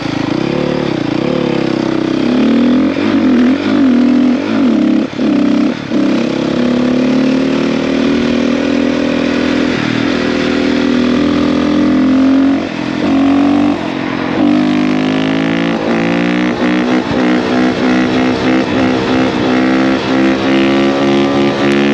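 Single-cylinder 450 four-stroke dirt bike engine running under throttle as it is ridden, its pitch rising and falling with the throttle, with a couple of brief lulls where the throttle is rolled off. In the second half it revs up repeatedly in short rising pulls.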